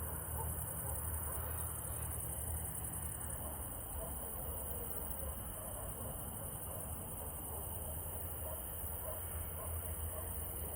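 Evening chorus of many crickets, a continuous high-pitched trilling.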